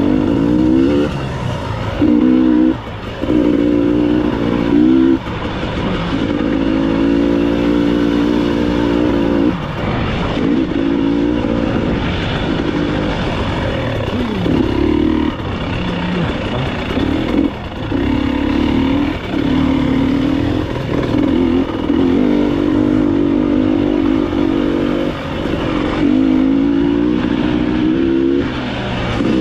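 Enduro dirt-bike engine being ridden off-road, its note rising and dropping back as the throttle is opened and closed in repeated short bursts.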